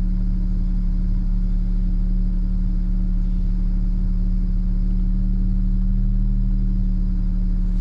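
BMW 335i's N54 twin-turbo inline-six idling steadily.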